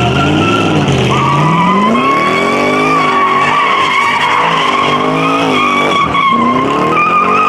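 Car engine revving up and down hard while the tires squeal steadily: a car spinning its wheels in a burnout.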